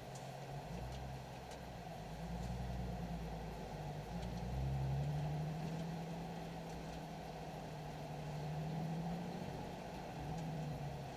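Nissan 370Z's 3.7-litre V6 engine running at low revs with a steady hum, its pitch and loudness rising and easing slightly a few times.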